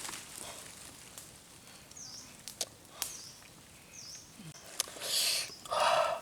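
Outdoor ambience: a short high chirp that repeats about every two seconds, a few sharp clicks, and a louder rustling, scraping burst near the end.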